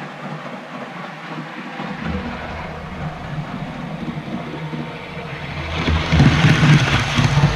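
A train approaching, its running noise and low rumble growing louder and loudest over the last two seconds, then cutting off abruptly.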